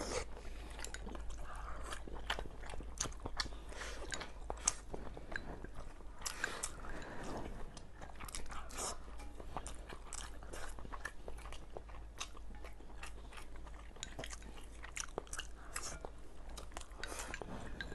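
Two people eating rice, stir-fried green chili with egg and sweet-and-sour bacon with chopsticks: close-up chewing and mouth sounds, with many small sharp clicks throughout.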